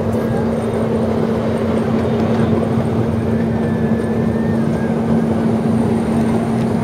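Moving train heard from an open-air passenger car: a steady engine hum over continuous rumble of wheels on track.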